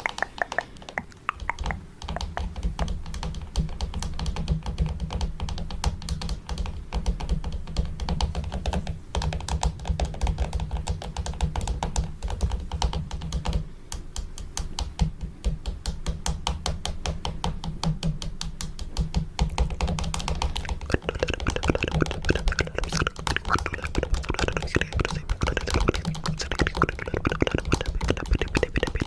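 Fingernails tapping rapidly on a camera, a fast, dense stream of clicks over dull thuds. About two-thirds of the way through, the tapping grows brighter and busier.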